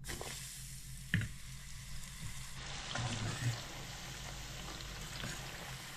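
Flour-coated chanterelle mushroom pieces sizzling as they deep-fry in a pot of oil, with the pieces being stirred and one sharp click of the utensil about a second in.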